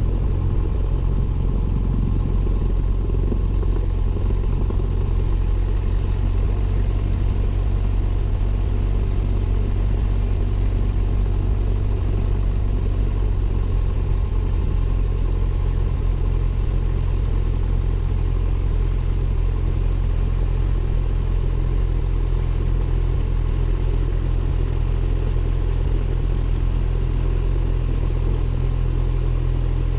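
Cessna 172N's four-cylinder Lycoming piston engine and propeller running at a steady, unchanging drone, heard from inside the cockpit.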